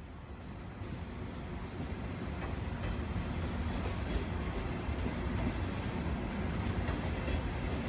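Passenger train rolling into the station on a near track, a low rumble of wheels on rails that grows louder over the first few seconds and then holds steady.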